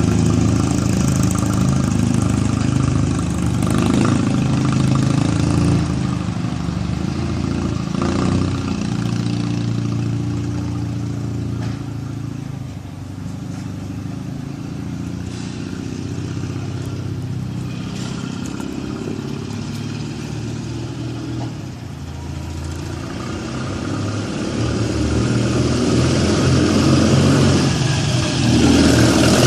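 1937 Zündapp KS600 flat-twin motorcycle engine running, quieter through the middle and louder again near the end.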